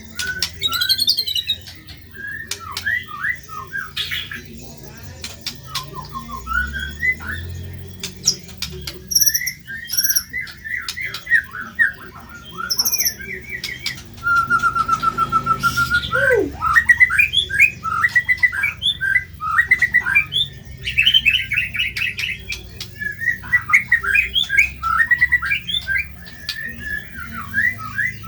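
White-rumped shama (murai batu) singing continuously: a fast, varied song of harsh, squawky chattering phrases, rapid note runs and sharp clicks, with a steady trill about halfway through.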